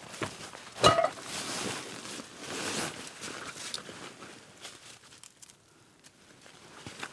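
Crinkling and rustling handling noise with one sharp crack about a second in, dying away to quiet about five seconds in.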